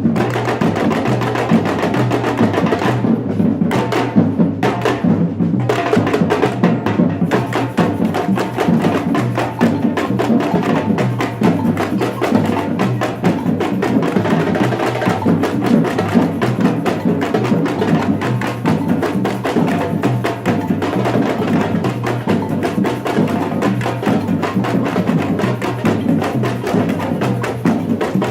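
Batucada samba percussion group playing a dense, driving drum rhythm without a break.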